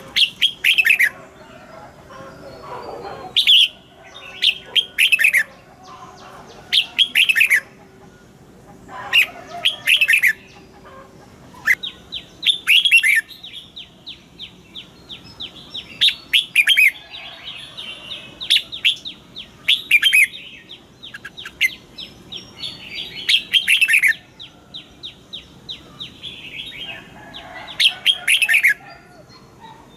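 Red-whiskered bulbul singing: short, loud whistled phrases, repeated every second or two, that fall in pitch, joined partway through by a fast run of high ticking notes that stops a few seconds before the end.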